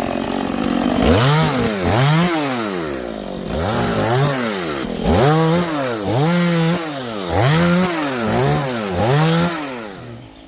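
Two-stroke chainsaw revved up and let back down about nine times in a row, its pitch climbing and falling with each pull of the throttle, then dropping off near the end.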